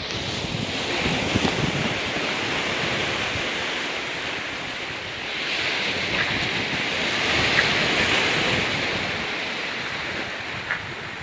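Ocean waves washing onto a rocky beach, the surf swelling twice about six seconds apart, with wind buffeting the microphone.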